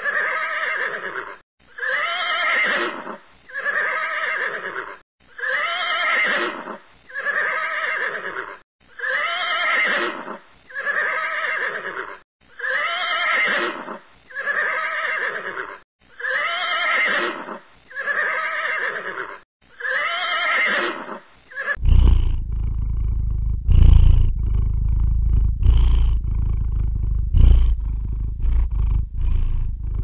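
A horse whinnying over and over, the same call repeated about every two seconds. About 22 seconds in it gives way to a cat purring, a steady low rumble with occasional sharp clicks.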